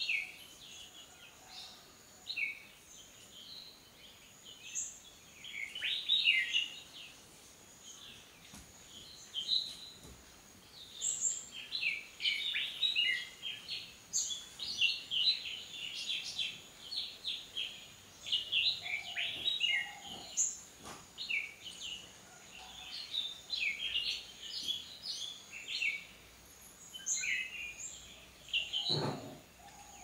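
Wild birds chirping: quick, short, high chirps and twitters, scattered at first and thickening into near-continuous chattering from about a third of the way in, over a faint steady high whine. A single soft low thump comes near the end.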